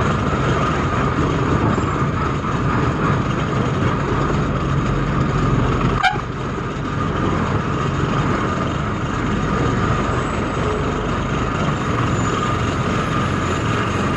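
Heavy truck's diesel engine running with a steady rumble and noise, heard from the cab, with a single brief click about six seconds in.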